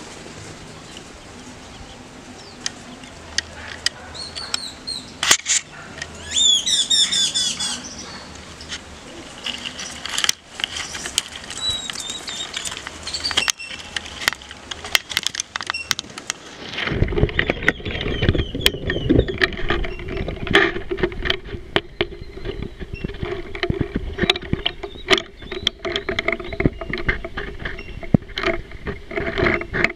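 Small birds calling in the trees, with quick chirps and warbling notes loudest about six to eight seconds in, over light background hiss and scattered clicks. About seventeen seconds in, a steady low drone with many sharp clicks comes in and holds to the end.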